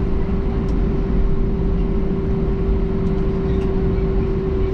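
Cabin noise of an Airbus A321-200 on the ground before takeoff: a steady low rumble from the engines running at idle, with a constant hum over it and a few faint clicks.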